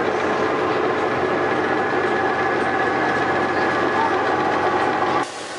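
Miniature train running along its track, heard from the driver's seat: a steady engine drone with several held tones over a rumbling rattle. A little past five seconds in it drops abruptly to a much quieter level.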